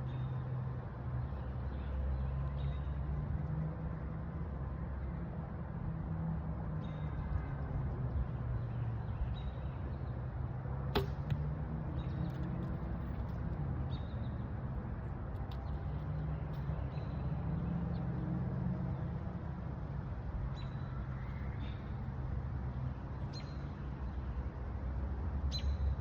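A Bear Adapt compound bow at a 43-pound draw being shot: sharp clicks of the release and arrows striking the target, the loudest about eleven seconds in, with fainter ones later. A steady low rumble runs underneath.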